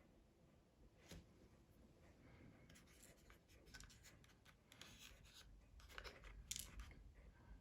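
Faint clicks and light scraping from small objects being handled on a work surface, scattered at first and coming more often from about three seconds in.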